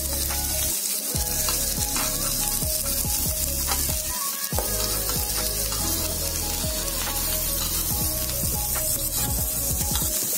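Pineapple slices sizzling steadily in hot ghee on an iron tawa, with short clicks and scrapes of a metal spatula against the pan as the slices are turned over.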